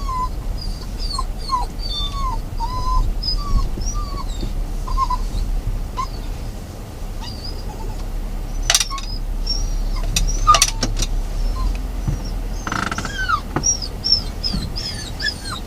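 Dogs whining and whimpering in a string of short, high cries that bend up and down in pitch, over a steady low rumble, with a couple of sharp knocks midway.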